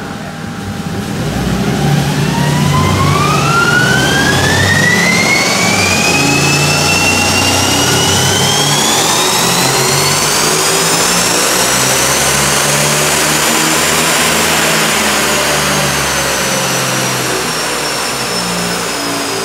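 Turbocharged Toyota 3S-GTE four-cylinder engine in a Caldina making a full-throttle run on a chassis dynamometer, its intercooler doused with water. A whine climbs steadily in pitch for about twelve seconds as the revs rise, then eases and falls slightly as the pull ends.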